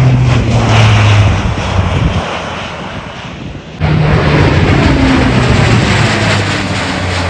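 Four-turboprop engines of a C-130J Super Hercules running loud as the plane passes, the engine drone falling in pitch. A sudden cut about four seconds in restarts the pass.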